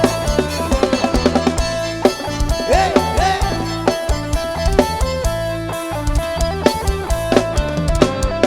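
Live band playing an instrumental stretch of Thai Isan-style dance music through a PA: a melody on electric instruments over a bass line and a steady drum-kit beat.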